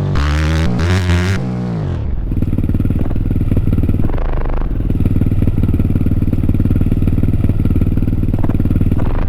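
Dirt bike engine running hard, a fast, even rattle held at steady revs from about two seconds in.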